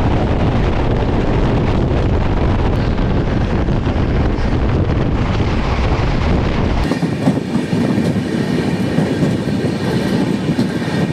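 Passenger train running, the steady rumble and rattle of the coaches on the track. About seven seconds in the sound changes abruptly: the deepest rumble drops away and faint, steady high ringing tones come in over the rattle.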